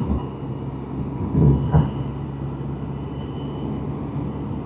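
Can-Am Spyder three-wheeler's engine running steadily on the road, heard from on board, with a brief swell about one and a half seconds in.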